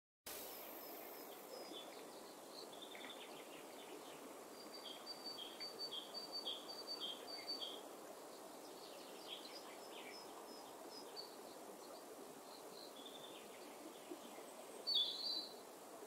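Woodland birds calling over a steady low background noise: a run of about six chirps, two a second, near the middle, scattered short calls around it, and one louder call near the end.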